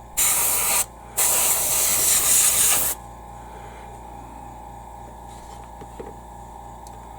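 Airbrush spraying paint in two bursts, a short one and then a longer one of about two seconds, each starting and stopping sharply as the trigger is worked. After that only a steady low hum remains.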